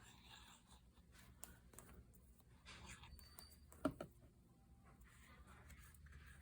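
Faint paper handling: soft rustling and sliding of paper as tabs are fitted to small file folders, with one sharp tap about four seconds in.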